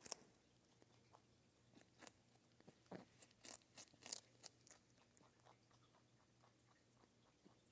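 Raw carrot being bitten and chewed: a sharp crunch at the start, then a quick run of crisp crunches from about two to four and a half seconds in, fading to faint chewing.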